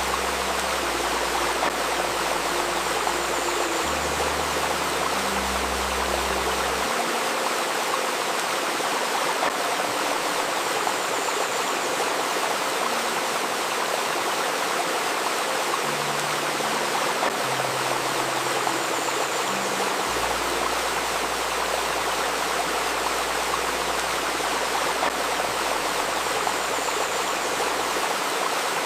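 Shallow river babbling steadily over stones, a full, even rush of water. Soft, low sustained tones from a 528 Hz healing-music layer sit underneath and shift in steps every few seconds, dropping out for a stretch around the middle.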